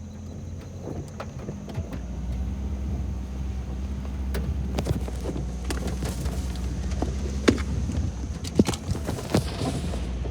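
Car running along a rough, washed-out dirt road, heard from inside the cabin: a steady engine and tyre hum with frequent sharp knocks and rattles as it goes over bumps.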